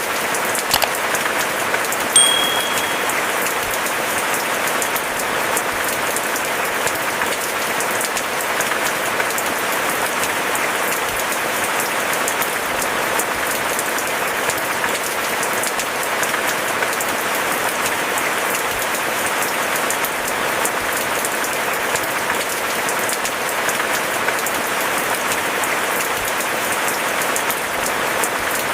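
Steady rain falling: a dense, even hiss of drops with no let-up. There are a couple of sharper drip knocks in the first second, and a brief high tone about two seconds in.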